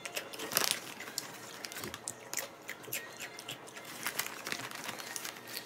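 Crunchy crackers being bitten and chewed close to the microphone: a quick, irregular run of small crackles and crinkles.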